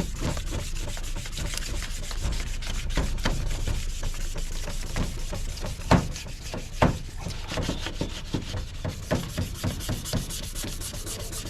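Hand wet-sanding of a car's plastic headlight lens with sandpaper: quick, repeated rubbing strokes, with two sharper knocks just past the middle.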